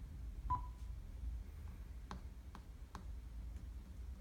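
A single short electronic beep from the Android car head unit's touchscreen as a button is pressed, followed about two seconds in by three faint clicks, over a low hum.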